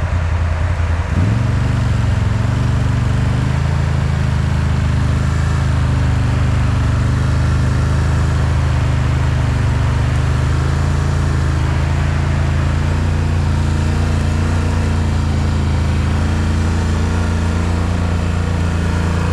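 ATV engine running hard at steady, raised revs, the pitch stepping up about a second in and then holding. The machine is working its way out of a deep mud hole while being winched.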